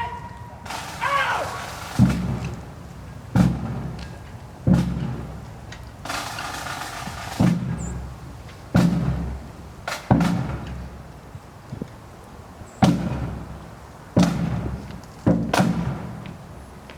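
A drum beaten slowly and steadily in a funeral march cadence, about one heavy stroke every second and a half, each with a short ring after it.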